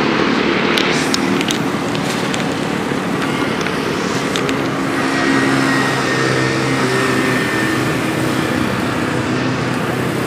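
Yamaha F1ZR's 110 cc two-stroke single-cylinder engine idling steadily through an expansion-chamber exhaust.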